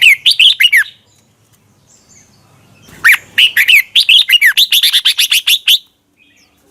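Red-whiskered bulbul singing: a short burst of quick, clear whistled notes, then, after a pause of about two seconds, a longer run of many rapid notes.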